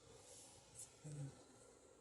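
Near silence: faint room tone, with a brief low hum lasting about a quarter second just after a second in.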